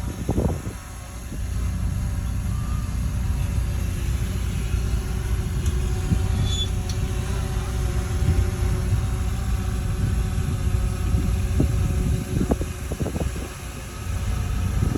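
Bulldozer's diesel engine running with a steady low rumble, with a few short knocks a little before the end.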